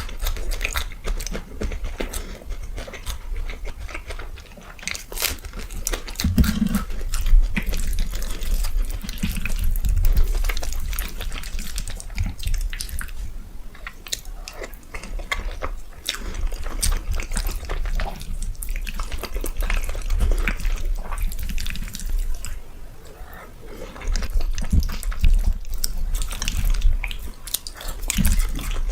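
Close-miked eating: wet chewing, smacking and mouth clicks, repeated through the stretch.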